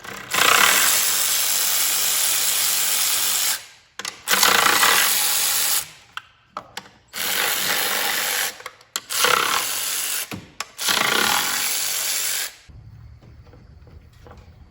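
A handheld power tool runs in five bursts: a long one of about three seconds, then four shorter ones of one to two seconds with brief pauses between. It is backing out 10 mm retaining bolts on a GM 3.6 L V6.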